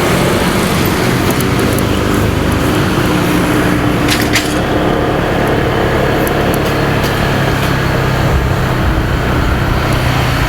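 Motorcycle engine running at a steady speed under wind and road noise in traffic, with a short sharp clatter about four seconds in.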